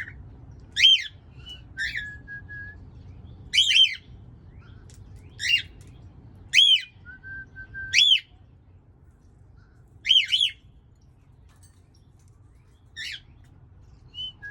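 Pet birds calling: short, sharp calls that sweep up and back down, coming singly or in pairs every second or two, with a few brief level whistles between them, over a low steady hum.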